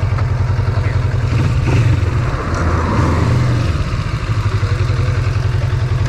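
Yamaha MT-09's inline-three engine idling through an Akrapovic titanium exhaust, with a brief swell and change in pitch in the middle before it settles back to a steady idle.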